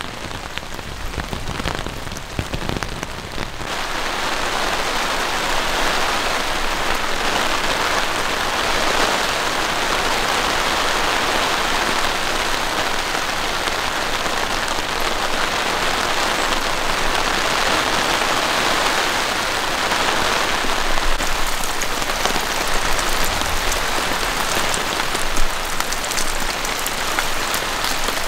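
Heavy rain falling steadily as a dense hiss. About three and a half seconds in it turns louder and fuller, and in the later part single drops tick sharply over it.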